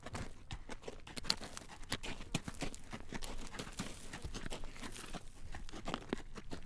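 A carriage horse's hooves clacking on a road as it walks, a dense, irregular run of sharp clacks with a crackling, crunching texture between them.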